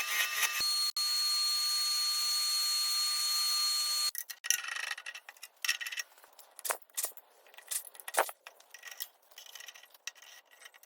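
A small power tool running with a steady high hiss and a faint whine for about four seconds, then cutting off abruptly. After that come scattered clicks, taps and short scrapes of wood being handled.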